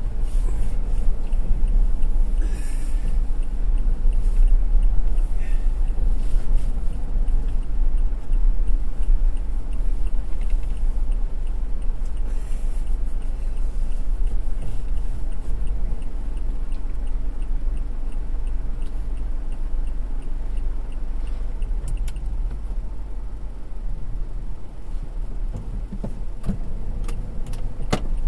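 A car driving along a road: a steady low rumble of engine and road noise, with a few sharp clicks or rattles near the end.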